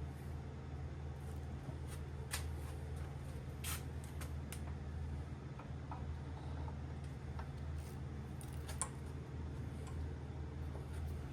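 A few light, sharp clicks and taps, scattered irregularly, over a steady low hum.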